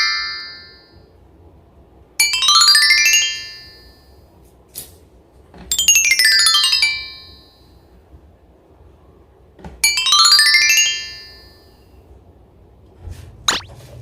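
Rising chime glissando sound effect: a quick upward run of bell-like notes that rings on for about a second, heard three times a few seconds apart. A short sharp click comes near the end.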